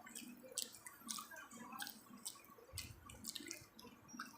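Faint wet clicks and smacks of food being chewed, coming irregularly several times a second.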